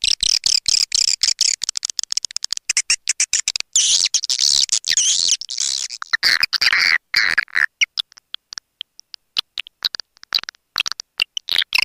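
Swiftlet call sound, a recording of swiftlets' rapid high twittering chirps used as a lure to draw swiftlets into a nesting house. Dense runs of chirps are broken by short silent gaps. The chirps thin out to scattered single calls about two-thirds of the way in, then thicken again near the end.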